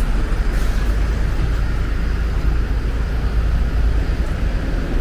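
Steady engine and road rumble of a double-decker bus, heard from inside the cabin.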